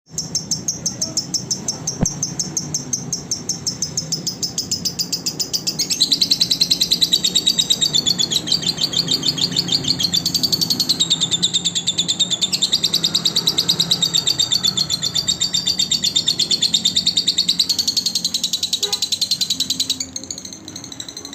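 Lovebird singing: a long, fast chatter of rapid high notes, louder from about six seconds in and falling away near the end.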